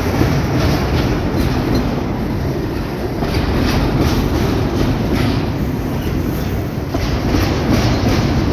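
Freight train cars rolling steadily past, wheels clacking over rail joints in an uneven run of clicks.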